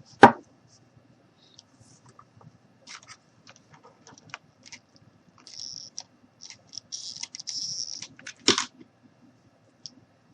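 Crafting handling noises: scattered small clicks and scratchy rustles as rope is wrapped and pressed around a wine glass. There are two sharper knocks, one just after the start and one about eight and a half seconds in.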